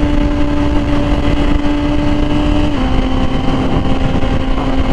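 Yamaha R6 inline-four sport bike engine running at a steady cruising speed, its pitch stepping down slightly about halfway through, under heavy wind rumble on the helmet mic.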